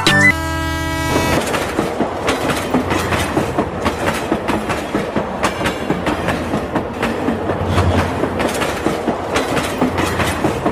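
Train sound effect: a short horn blast about a second long, then the steady rhythmic clickety-clack of train wheels running over rail joints.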